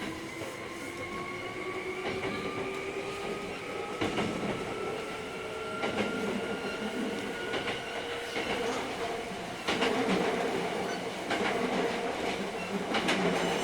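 Hankyu 3300 series electric train heard from inside the car: the traction motor whine rises slowly in pitch as the train gathers speed, then levels off. Over it the wheels knock over rail joints in irregular clicks and thumps.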